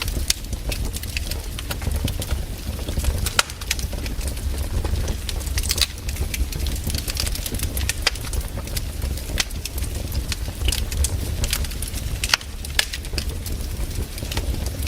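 Wood campfire burning, crackling with frequent sharp pops and snaps of burning wood at irregular intervals, over a steady low rumble.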